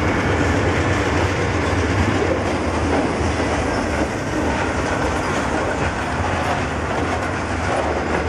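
Freight train's covered hopper cars rolling past at close range, the wheels running steadily over the rails.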